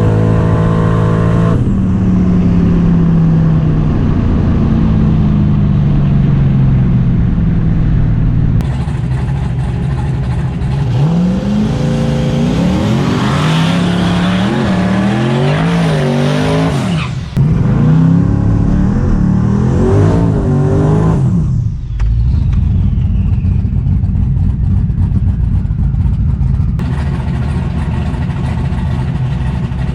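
Drag-racing car engine running loud and steady, its pitch sinking slowly over the first few seconds, then revved in a string of quick rises and falls in the middle before settling back to a steady run. The sound changes abruptly several times.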